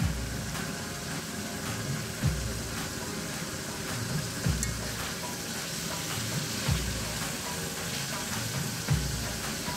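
Potato curry sizzling and bubbling in hot oil in a pan, a steady frying hiss. A soft low thump comes about every two seconds.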